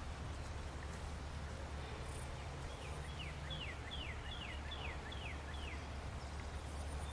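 A bird calling a quick series of about eight short notes, each sliding down in pitch, over a steady low outdoor rumble.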